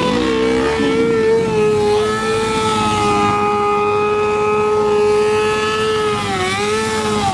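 Car engine held at high revs at a steady pitch, dipping slightly now and then. Another engine briefly revs up about half a second in.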